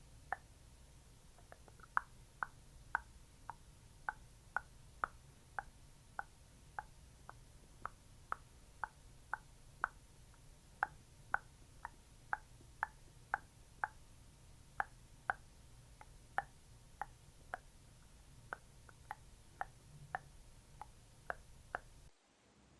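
A steady rhythm of short wet plops, nearly two a second, from a thick, sticky skincare product being patted on close to the microphone.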